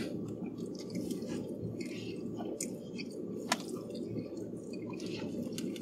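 A man chewing a mouthful of macaroni and cheese, with soft wet mouth sounds and a few faint clicks, one sharper click about three and a half seconds in, over a steady low hum.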